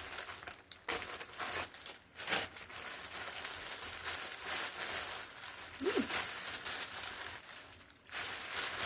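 Plastic packaging crinkling and rustling as a package is opened by hand, with occasional sharp crackles and tearing sounds.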